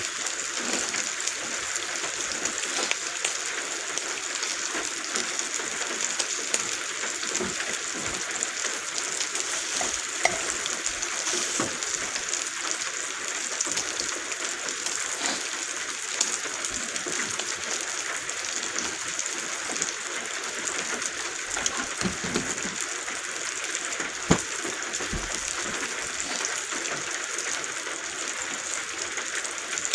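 Bacon sizzling steadily on a griddle over a camp stove burner, with a few sharp pops, against the hiss of rain falling on the roof.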